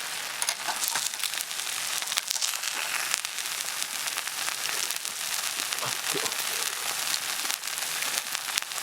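Monjayaki sizzling on a hot iron griddle: a steady hiss with many small pops and crackles.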